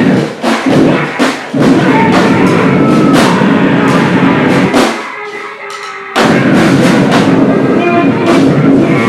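Noise-grind band playing loud and dense: a drum kit pounding through a wall of distorted noise. About five seconds in it drops back to a thinner, quieter stretch for about a second, then slams back in at full volume.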